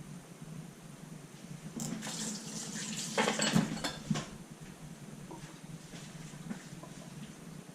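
Kitchen tap running briefly into a sink, with a few knocks and clinks of dishes towards the end of the run.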